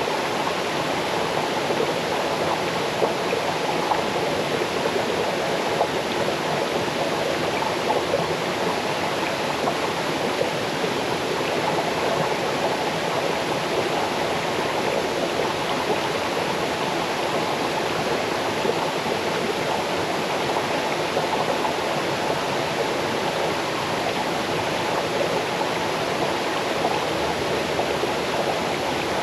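Small waterfall cascading over rocks into a stream: a steady, even rush of water with a light babble.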